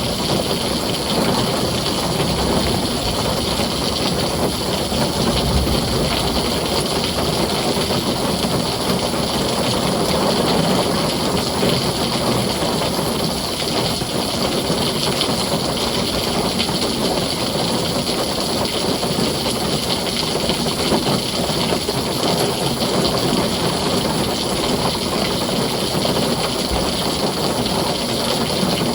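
Heavy rain drumming steadily on a tin roof, with a low rumble of thunder underneath.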